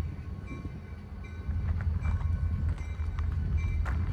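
Two diesel locomotives running light with no cars, rolling past: a steady low engine rumble that grows louder about a second and a half in, with scattered clicks from the wheels on the rails and one sharper click near the end.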